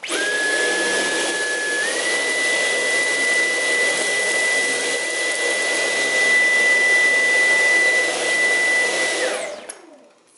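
Dyson V11 Animal cordless stick vacuum switched on at its highest power setting, its motor whine stepping up in pitch about two seconds in over a steady rush of suction. It then switches off near the end and winds down with a falling whine.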